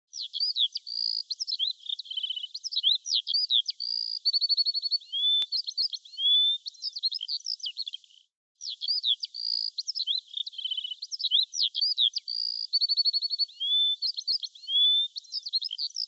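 Songbird singing a varied, high-pitched song of quick chirps, rapid trills and rising whistles. The same eight-second stretch of song plays twice, with a brief gap near the middle.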